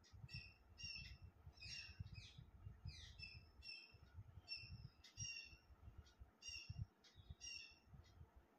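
Birds chirping outside, faint: a quick run of short, high chirps, several a second, over a low rumble.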